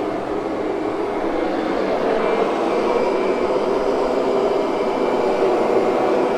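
Kirby upright vacuum cleaner running steadily while vacuuming carpet, a constant motor drone with a faint high whine.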